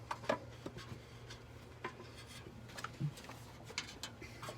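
Scattered light clinks and knocks of metal parts and tools being handled on an engine, over a steady low hum.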